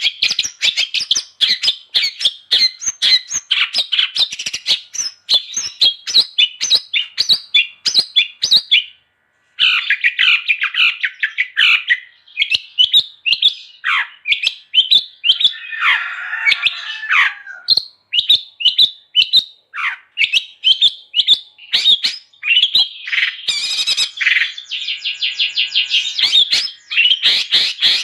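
Long-tailed shrike (cendet) singing a fast, continuous chattering song of short, sharp high notes. The song breaks off briefly about nine seconds in, and a harsher, scratchy stretch follows around the middle.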